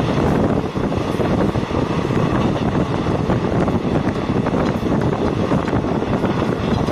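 Steady running noise of a moving train, wheels on the rails and rushing air, with wind buffeting the microphone.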